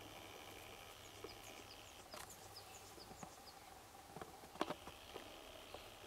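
Faint outdoor quiet with a run of short, high chirps from a small bird, about eight of them between one and three and a half seconds in. A few soft clicks or rustles are heard too, the sharpest about four and a half seconds in.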